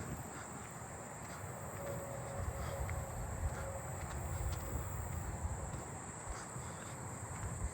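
Steady high-pitched insect chorus of late-summer katydids and crickets, agile meadow katydids among them, over the low rumble of someone walking.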